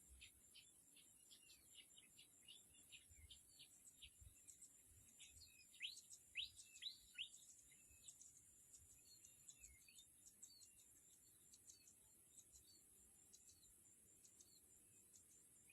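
Small birds calling faintly: a string of short high chirps, with a run of louder, quick downward-sweeping calls about six seconds in, over a steady high hiss.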